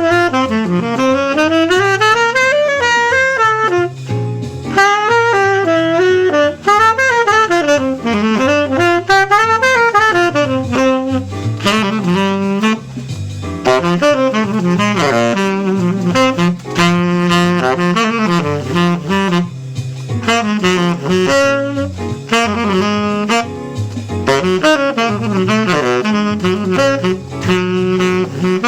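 Saxophone playing an improvised jazz solo, with fast runs sweeping up and down. A bass line steps along underneath.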